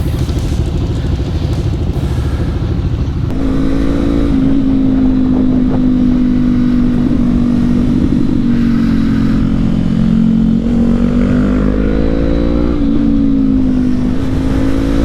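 Honda CB500X parallel-twin engine running at a steady cruising speed while riding, with wind rumble on the helmet-mounted camera. The engine note holds level, then rises a little near the end.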